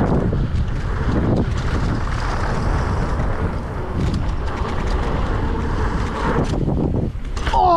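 Wind buffeting the microphone over the rumble and rattle of a mountain bike riding down a rough trail, with scattered knocks from bumps. A short voiced sound begins right at the end.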